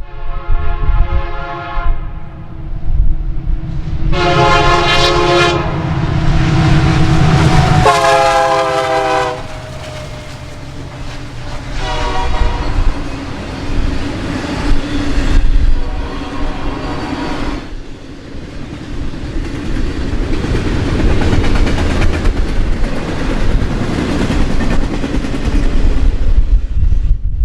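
Norfolk Southern locomotive air horn sounding five blasts over the low rumble of the train, its pitch dropping about eight seconds in as the locomotive passes. From about eighteen seconds in, the steady wheel-on-rail noise of the train's cars rolling past.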